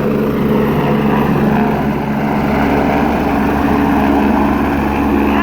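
A LifeFlight medical helicopter's rotor and turbine running at a steady pitch, a constant loud hum with no rise or fall.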